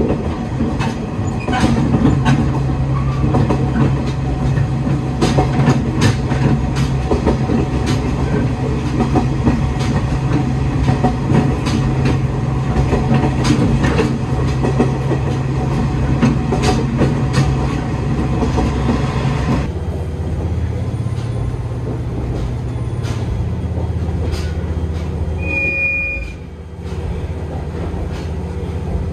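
Diesel railcar under way on the Aizu Railway: a steady engine drone under rattling and a rapid run of sharp clicks from the wheels going over rail joints. About two-thirds of the way through, the sound changes abruptly to a duller, quieter running noise, and there is a short high beep near the end.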